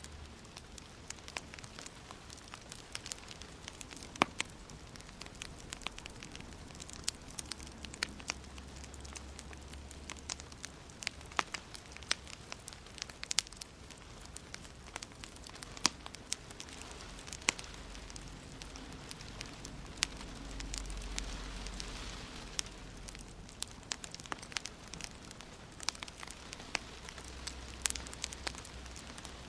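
Wood fire in a fireplace crackling, with sharp irregular pops several times a second over a steady hiss and a low rumble.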